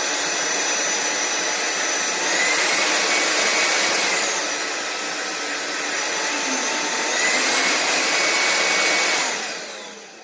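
Cordless stick vacuum (Sulean X8) running with a steady high motor whine. Twice its pitch rises and it gets louder for a couple of seconds before dropping back, then it winds down near the end.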